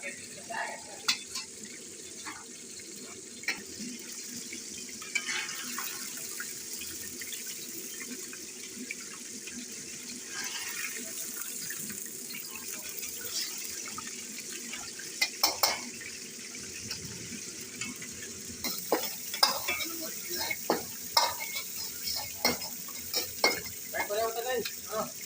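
Oil sizzling steadily as food fries in a pan, while a utensil stirs it and knocks against the pan, the knocks coming more often in the second half.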